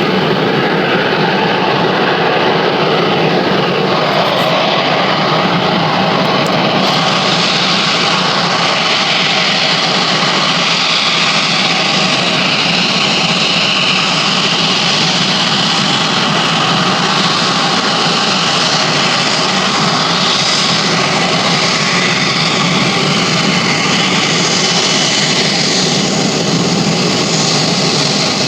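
Airplane engines running: a loud, steady rush with no breaks, its high hiss growing stronger about seven seconds in.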